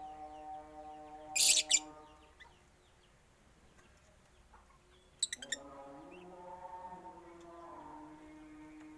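Birds in a mixed aviary calling, with two short, shrill, loud calls, one about a second and a half in and another near the middle, over a drawn-out lower pitched sound.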